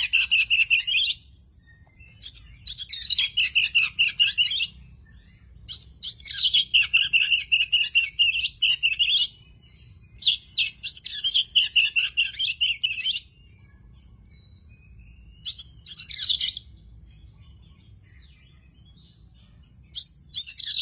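Oriental magpie-robin (kacer) singing in bursts of rapid, varied high notes, each phrase about one to three seconds long, with short pauses between them.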